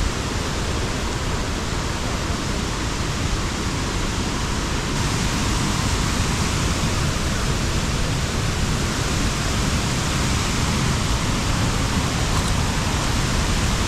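Hogenakkal Falls: a heavy flow of water pouring over the falls, a loud, steady rush that grows a little louder about five seconds in.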